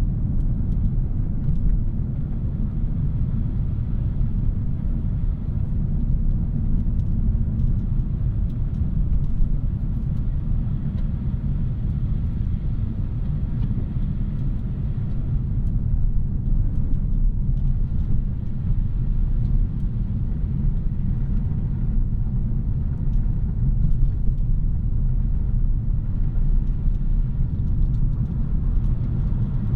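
2017 Audi A3's 2.0-liter turbocharged four-cylinder and tyres while driving: a steady low rumble that holds an even level.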